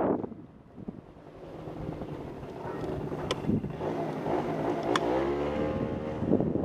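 Motorcycle engine running and revving up, its pitch rising about five seconds in, under gusting wind noise on the microphone.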